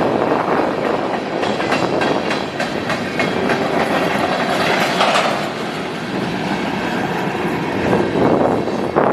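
Freight train cars rolling past, their wheels clacking over rail joints in a quick irregular run of clicks over a steady rolling rumble.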